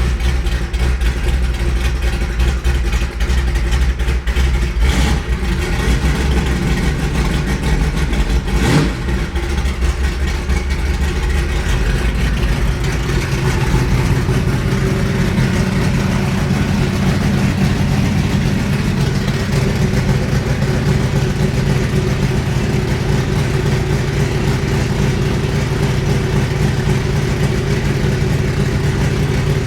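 Ford 427 side-oiler big-block V8 idling loud and steady soon after a cold start. About twelve seconds in, the engine speed rises and holds at a higher idle. There is a single sharp click a few seconds before that.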